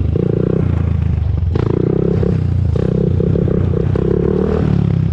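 Honda TRX400EX ATV's air-cooled single-cylinder four-stroke engine running as the quad is ridden, loud and steady with some clatter.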